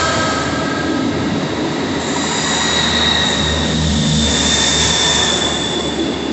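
GWR Networker Turbo diesel multiple unit running along the platform, with a high steady wheel squeal in the second half that falls slightly in pitch.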